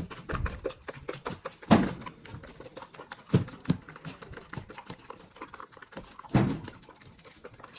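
Dog eating, a quick run of small crunching and clicking sounds from chewing, with a few louder knocks among them.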